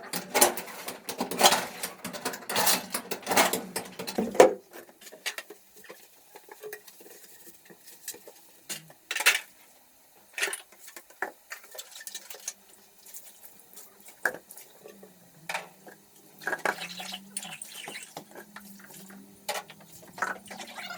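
Dishes and utensils clattering and clinking: a busy run of knocks for the first four seconds or so, then scattered single clinks. A faint steady low tone comes in for the last few seconds.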